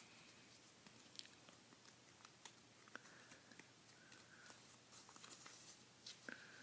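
Faint rustling and small crackles of a sheet of paper being folded and creased by hand.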